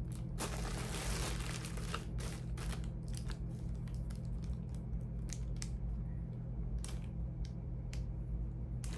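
Rummaging through a bag of charging cords: rustling and crinkling with many small clicks and taps of plugs and cables, heaviest about a second in, over a steady low hum.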